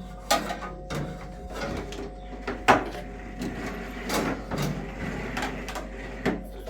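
A series of irregular knocks and clatters, like objects being handled, over a steady low hum.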